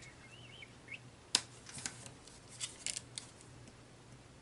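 Light clicks and taps of paper and thin chipboard pieces being handled and set onto a scrapbook page, the sharpest about a third of the way in, then a quick run of small clicks in the middle.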